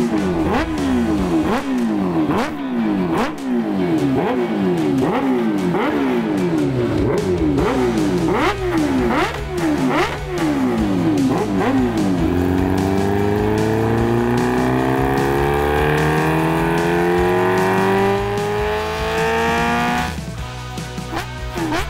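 Kawasaki Ninja H2R's supercharged inline-four engine running on a motorcycle dynamometer. For the first half it is revved in quick repeated blips, about two a second. Then, about halfway in, it is held open on a power run, its pitch climbing steadily for about eight seconds before it drops back to short blips near the end.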